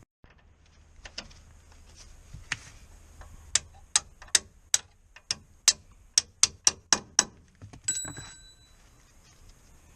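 A run of sharp clicks, about a dozen in four seconds, then a short ringing tone that fades.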